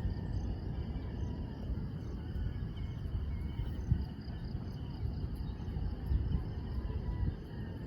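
Outdoor ambience: a steady, pulsing chorus of insects over a low, uneven rumble.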